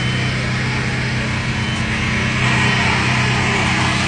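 A steady low engine hum under general background noise.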